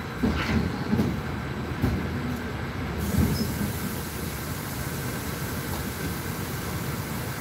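Inside a passenger train carriage: a steady low rumble, with a few dull knocks in the first three seconds.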